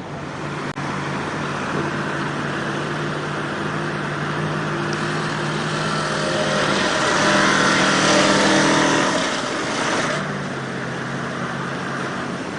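Truck engine running hard and steady, revving up higher and louder for a couple of seconds past the middle, then dropping back to a steady run.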